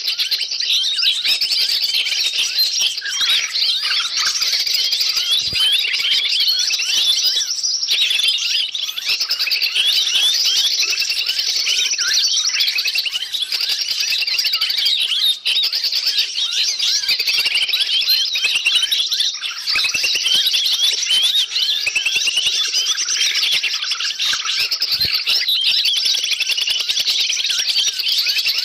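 Noisy mixed chorus of many small wild birds chirping and calling at once, a dense, unbroken din of quick high chirps and short whistled sweeps: a bird-trapping lure recording meant to draw wild birds in.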